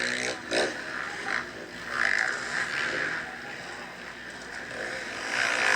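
Motocross dirt bike engines running on the track, revving up and easing off in swells, with a rising rev about the start.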